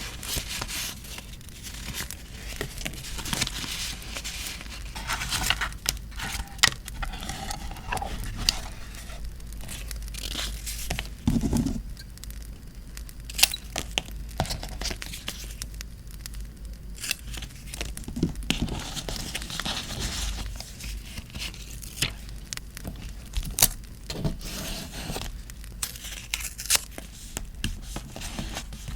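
Paper being handled by hand, torn and crinkled, during vintage journal decorating with postcards. Many scattered sharp crackles and clicks run through it, against a steady low hum; the crackles fit a campfire sound track.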